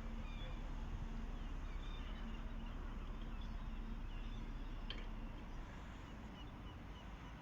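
Small birds chirping in short, scattered calls over a steady low rumble of wind on the microphone. A faint steady hum fades out about halfway through, and there is a single sharp click near the five-second mark.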